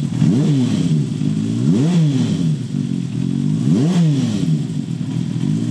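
Honda CB400Four's air-cooled inline-four idling through a Yoshimura short exhaust and revved three times, each blip of the throttle rising in pitch and falling straight back to idle. Little mechanical noise comes through, a sign that the long-neglected engine runs quietly.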